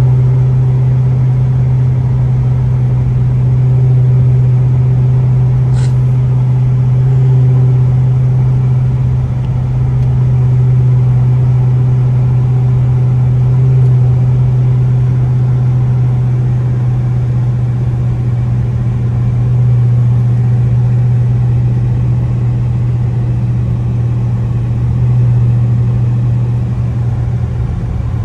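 Very loud exhaust of a Dodge R/T car cruising at a steady speed: a deep, steady drone with little change in pitch. A single sharp click about six seconds in.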